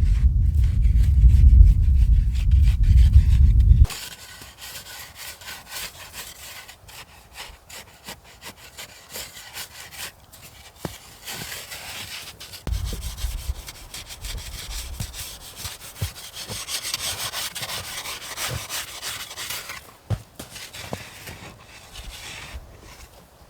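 Rough scraping and rubbing with scattered knocks, like sawing. A loud low rumble runs over it at first and cuts off abruptly about four seconds in.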